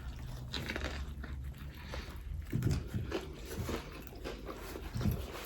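Close-up chewing and biting into a chicken roll, with many small crunching, smacking mouth clicks.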